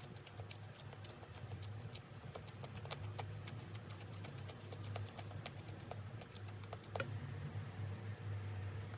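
Irregular light clicks and taps of kitchen items being handled, one sharper knock about seven seconds in, over a steady low hum.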